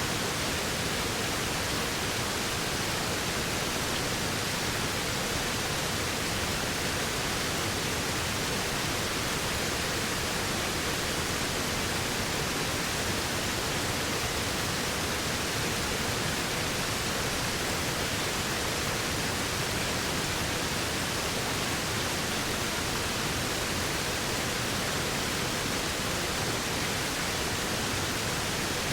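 Waterfall: the steady rush of falling water, an even, unbroken hiss.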